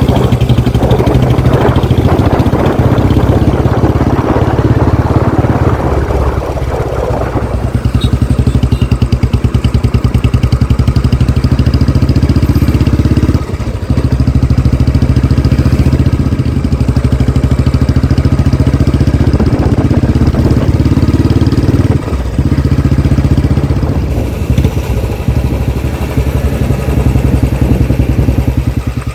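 Royal Enfield Classic 350's single-cylinder engine running through an aftermarket Barrel 'Canon' exhaust, a steady, rapid low exhaust beat. The level dips briefly about a third of the way in and again about three quarters of the way through.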